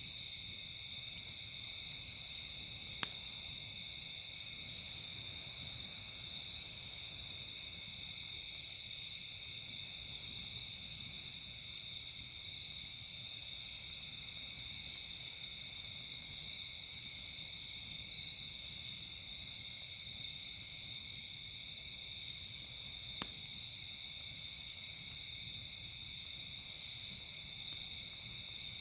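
A steady chorus of night insects, crickets among them, with a higher buzzing that comes and goes every six seconds or so. A campfire gives two sharp pops, about three seconds in and again about twenty-three seconds in.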